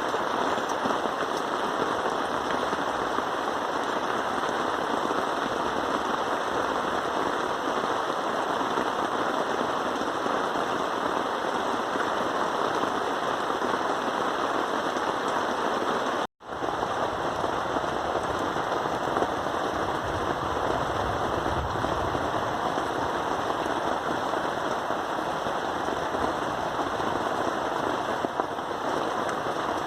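Heavy rain pattering steadily in a dense, even hiss, cutting out for an instant just past halfway.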